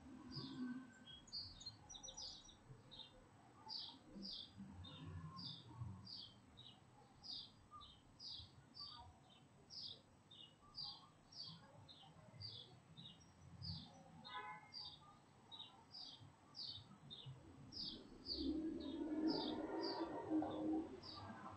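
A bird chirping over and over, short high chirps about twice a second, over a faint low traffic rumble. Near the end a car drives past, the loudest sound.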